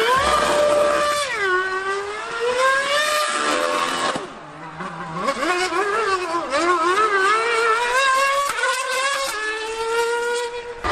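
High-revving racing engines of a V8 Formula One car and a Yamaha R1M superbike lapping a circuit. Their pitch climbs with revs and drops away repeatedly at gear changes and braking. The sound fades about four seconds in, then comes back loud.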